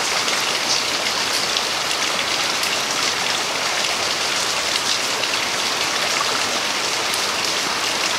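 Steady rain falling on wet pavement: a dense, even hiss with scattered sharp ticks of individual drops.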